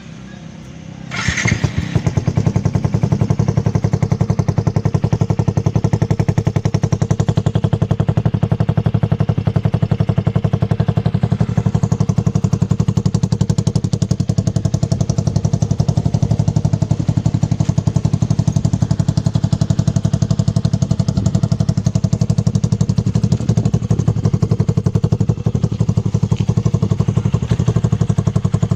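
Yamaha Jupiter MX King's single-cylinder 150 cc four-stroke engine starting up about a second in, then idling steadily through an aftermarket racing exhaust with an even, rapid pulse.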